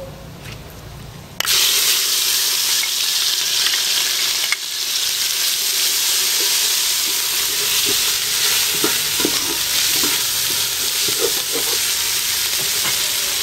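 Food dropped into hot oil in a pan, starting to sizzle loudly and suddenly about a second and a half in, then frying steadily with a few soft clicks from stirring.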